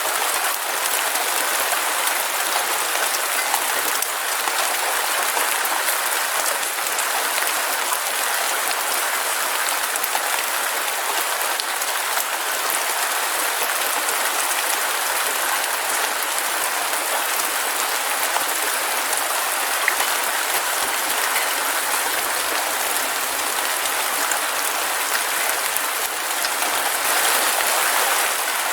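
Heavy rain falling steadily, a dense even hiss of countless drops pattering on surfaces.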